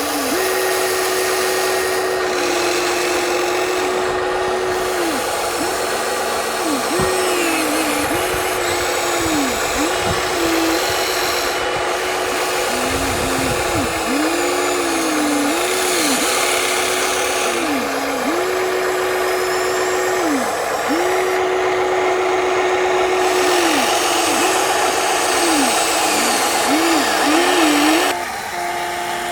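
Electric motors and gearboxes of radio-controlled construction models whining as they are driven in short bursts: the pitch climbs, holds steady and falls away again and again as the controls are worked.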